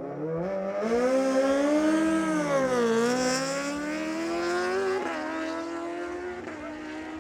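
Superbike engines at full throttle accelerating down a drag strip. The pitch climbs, then drops back sharply about three and five seconds in as the bikes shift up.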